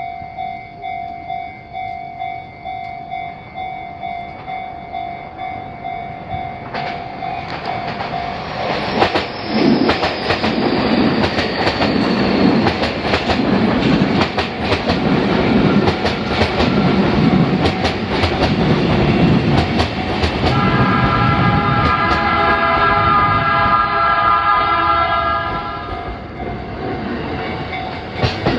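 Japanese level-crossing alarm ringing about twice a second, then an electric commuter train arrives and passes over the crossing with rhythmic wheel clatter over the rail joints and a falling whine. About 20 seconds in a steady multi-note tone sounds for about five seconds.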